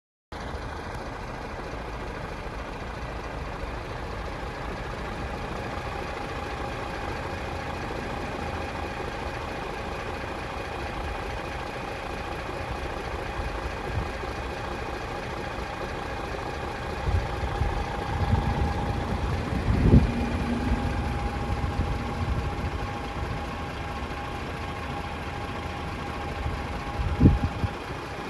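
DAF CF480 tractor unit's PACCAR MX-13 six-cylinder diesel idling steadily. Two sharp thumps stand out, one about two-thirds of the way through and one near the end.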